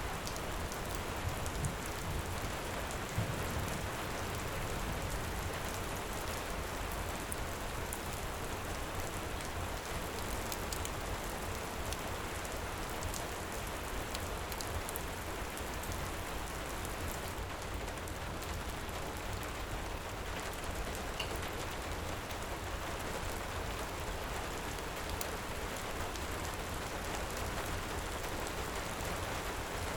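Heavy rain falling steadily, with a low rumble of thunder dying away in the first few seconds. Scattered sharp little crackles sound through it.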